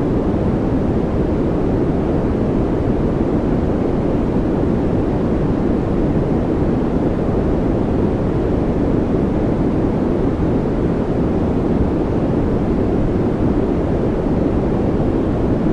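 A steady, unchanging noise track of the white-noise kind used for focus or sleep, deep and rushing with little hiss in the treble.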